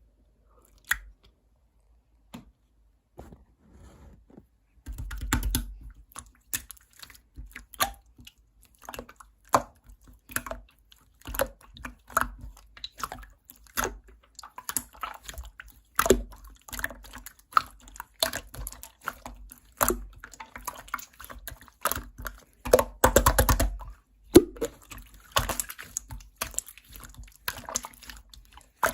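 Slime being pressed, squeezed and stretched by hand, giving an irregular run of sticky clicks and squelches, with a denser crackling stretch near the end.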